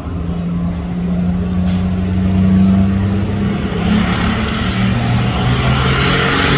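Competition pulling tractor's engine running at full throttle under load as it drags the weight sled down the track. The pitch holds high, then drops a step about four to five seconds in as the load builds.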